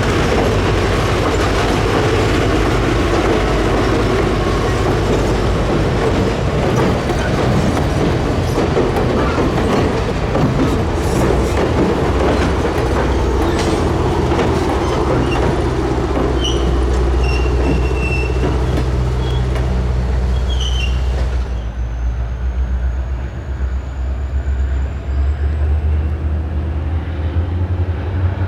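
Passenger train hauled by an EMD GP30 diesel locomotive rolling past, with heavy engine and wheel rumble, wheels clicking over rail joints and brief wheel squeals. About 21 seconds in the sound changes abruptly to a deep, steady low rumble with the hiss and clatter gone.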